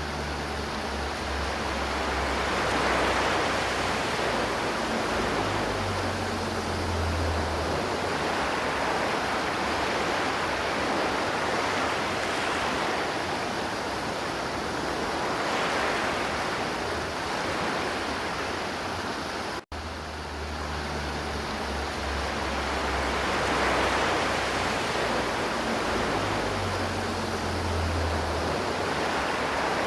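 River water flowing steadily in a constant rush. About two-thirds of the way through there is a momentary break in the sound, after which the same stretch of recording repeats as a loop.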